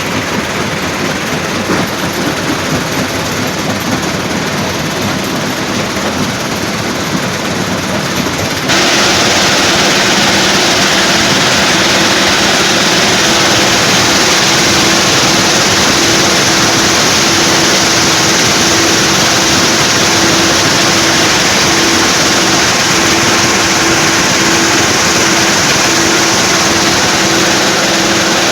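Stone crusher plant machinery running: a loud, steady mechanical din. About nine seconds in it suddenly becomes louder and brighter, with a steady pulsing hum underneath.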